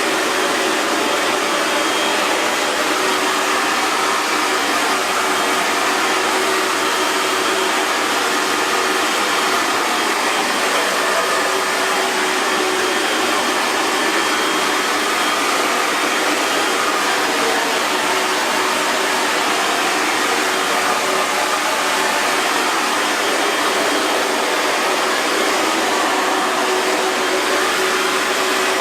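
Hair dryer running continuously: an even rush of airflow with a faint steady motor hum, unchanging throughout.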